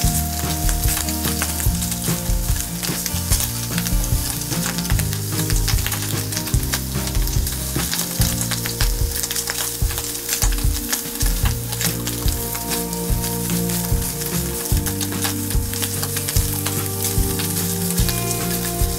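Diced meat sizzling in a small frying pan over a wood-burning camp stove while it is stirred with chopsticks, with many small pops and crackles throughout.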